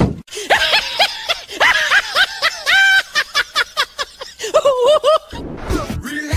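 High-pitched laughter: a quick string of short, squeaky rising-and-falling notes, with a wavering run near the end.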